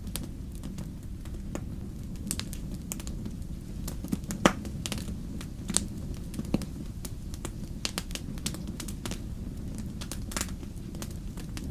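Wood fire burning with a steady low rumble and frequent sharp crackles and pops, one louder pop about four and a half seconds in.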